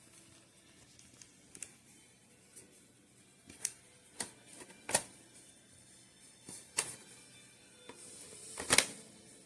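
Scattered sharp clicks and knocks of handling, about six of them spread irregularly, the loudest near the end.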